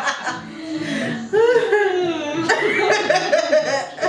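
Women laughing and chuckling, with a louder burst of laughter about a second and a half in.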